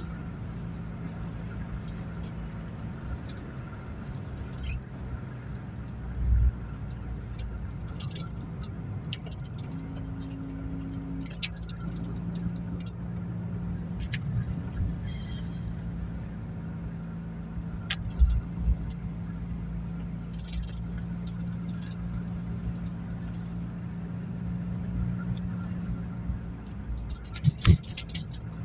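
Ford Fiesta XR2's carburetted 1.6-litre four-cylinder engine running steadily at cruising speed, heard from inside the cabin along with road noise. Occasional knocks and rattles come through, the loudest near the end.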